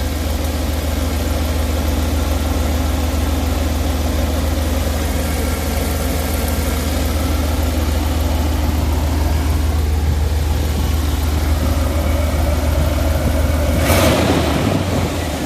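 1992 Dodge B250 van's engine idling steadily just after a tune-up, sounding smooth. There is a brief louder surge about a second before the end.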